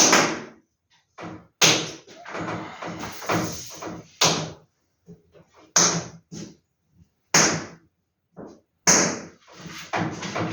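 Vintage paper posters being handled and sorted: a series of sharp slaps or knocks about every second and a half, each followed by a short rustle of paper.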